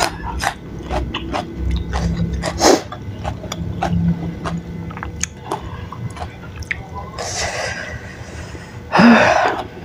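Close-miked chewing of chewy tapioca-starch cirambay, a run of wet mouth clicks and smacks with one louder smack about three seconds in. Two short breathy rushes come around seven and nine seconds in.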